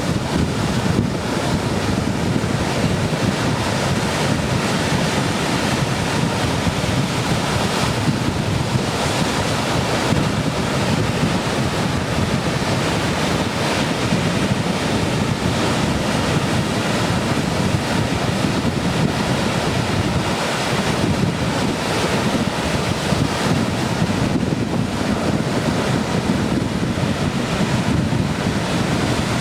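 Ocean surf breaking in a continuous rush, high waves raised by a typhoon swell, with wind buffeting the microphone.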